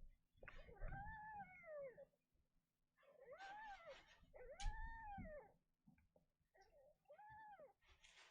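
Kitten meowing repeatedly: several separate mews with pauses between them, each rising and then falling in pitch.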